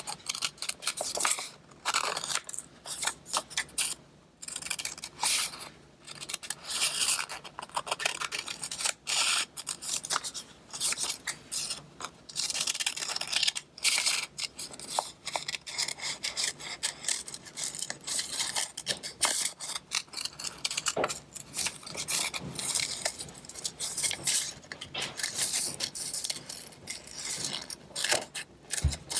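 Scissors cutting through two layers of paper, snipping over and over in quick, irregular runs.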